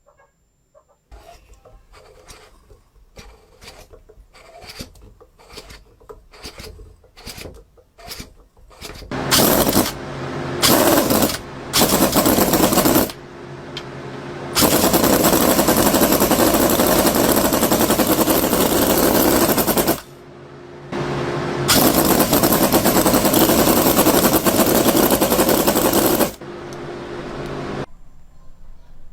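Miniature diesel engine: slow separate knocks for several seconds, then it runs loudly with a rapid hammering beat, dropping back briefly a few times before falling away near the end.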